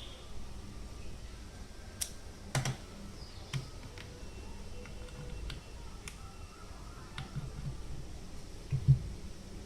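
Scattered sharp clicks and light knocks of objects being handled, with a louder knock near the end.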